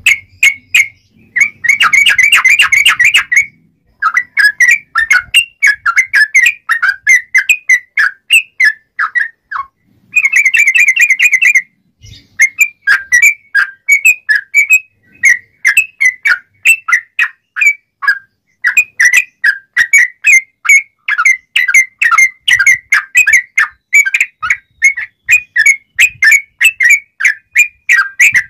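Yellow-vented bulbul (trucuk) singing continuously in a long chattering 'ngobra' phrase. Short, clear notes come about three a second, broken twice by fast, dense rattling trills.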